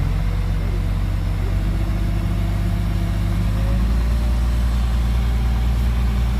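Heavy diesel engine running steadily, its note shifting a little about four seconds in.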